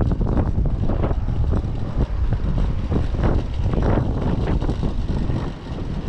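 Typhoon wind buffeting the microphone of a camera carried on a moving bicycle: a loud, low rumble that surges and drops in gusts.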